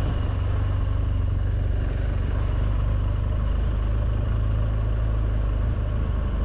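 BMW R1200GS Adventure's boxer-twin engine running steadily at low speed, a continuous low rumble with a fast, even beat of firing pulses.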